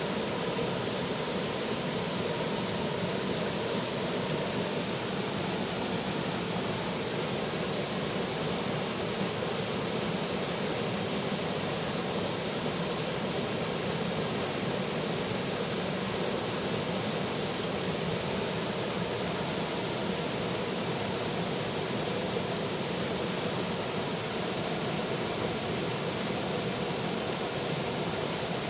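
River water flowing steadily over rocks, a continuous even rush with no breaks.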